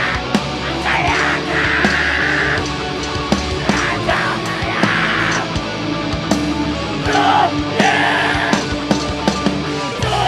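Live heavy metal band playing: distorted guitars, bass and drums, with harsh screamed vocals in several stretches.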